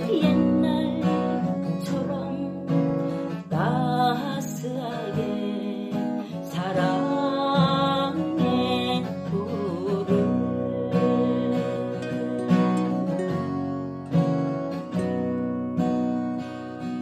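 Music: an acoustic guitar strummed and picked through a chord progression.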